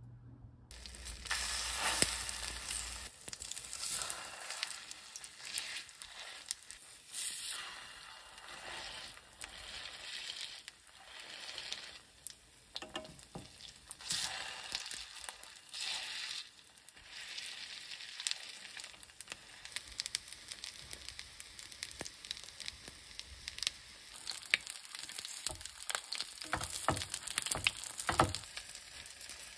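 Egg-dipped minced-meat patties (donggeurangttaeng) sizzling in oil in a frying pan on low heat. The sizzle swells in surges as the patties are flipped and pressed with a spatula, and a few sharp utensil clicks against the pan come near the end.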